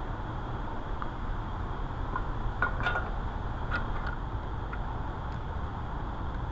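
Scattered light metallic clinks and taps of metal parts and tools being handled, most of them between about two and a half and four seconds in, over a steady low hum.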